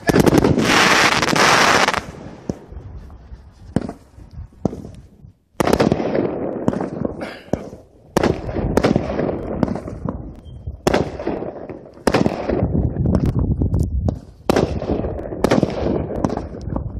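Consumer firework cakes firing: a dense, loud crackle for the first two seconds, then scattered cracks. After a short silence about five and a half seconds in, rapid volleys of sharp bangs and crackling run on to the end.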